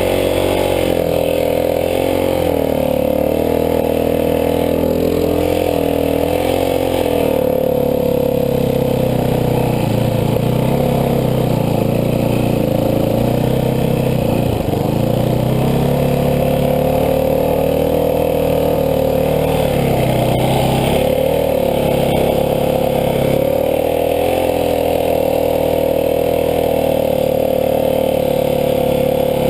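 Dirt bike engine running hard, its pitch rising and falling with the throttle, with several brief dips as the revs drop and pick up again.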